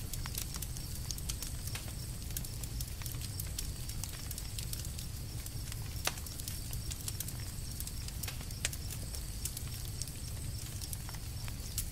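Campfire crackling: irregular small pops and snaps over a steady low rumble, with a sharper pop about six seconds in and another a couple of seconds later.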